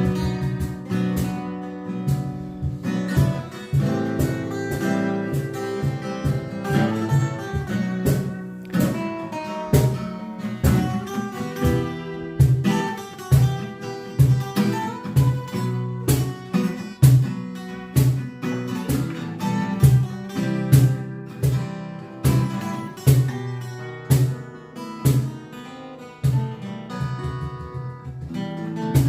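Instrumental music: a plucked acoustic guitar playing a steady run of notes and chords.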